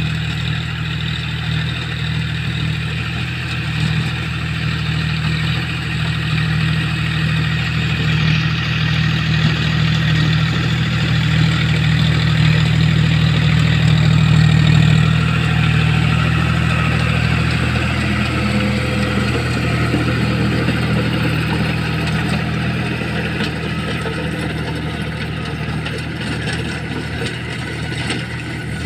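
John Deere tractor's diesel engine running steadily, growing somewhat louder toward the middle and easing off in the second half.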